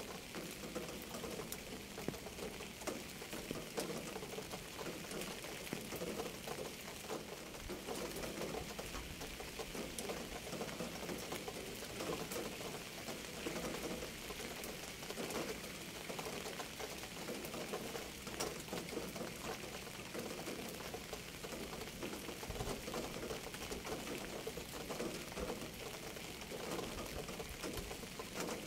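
Steady rain: a dense, even spatter of countless small drops that does not let up.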